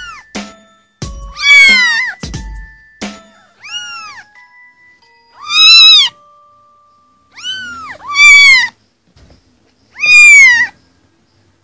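Very young grey kittens mewing: five high, loud calls, each rising then falling in pitch, about one every two seconds.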